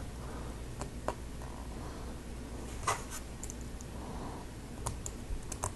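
Lego Technic plastic pieces being handled and pressed together: a few scattered short clicks and taps.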